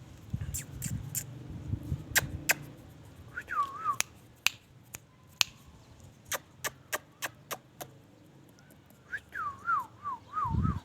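Ringneck parrot making sharp clicks, in places about three a second, and short wavy whistled calls, once about a third of the way in and in a quick string near the end.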